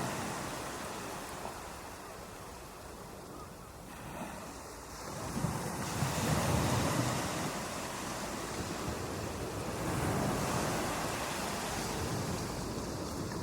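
Ocean waves breaking on a beach: a steady rush of surf that ebbs for a few seconds, then surges again as the next wave breaks about five seconds in.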